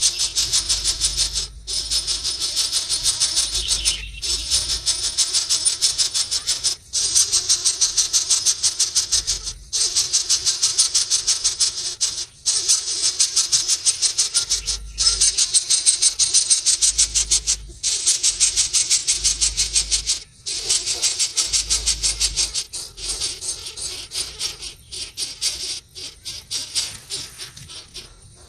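A small bird's rapid, rattling trill, repeated in bouts of two to three seconds with short pauses between them.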